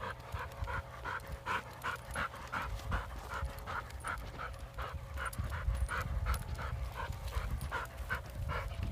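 A dog panting heavily in a steady rhythm, about three breaths a second.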